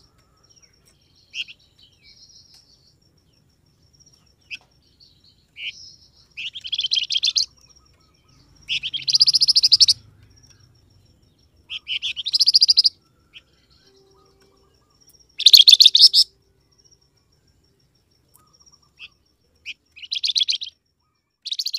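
Song of the cage bird known in Indonesia as the flamboyan, played as a calling recording: high-pitched phrases of rapid chirping notes, each about a second long, repeated every few seconds with short single chirps in between.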